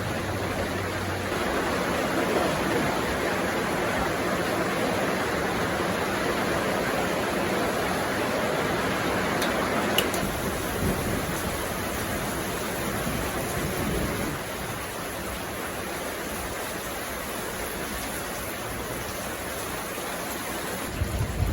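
Steady rain falling, an even hiss of drops that eases a little about fourteen seconds in. A single sharp click sounds near the middle.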